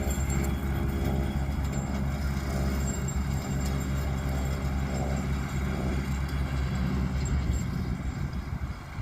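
Tractor engine running steadily under load, pulling a bush hog rotary mower across a field. It gets a little quieter near the end.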